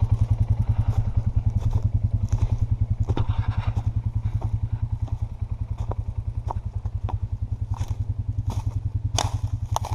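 An engine idling steadily with an even low pulse, with scattered clicks and rustles over it, one sharper click about nine seconds in.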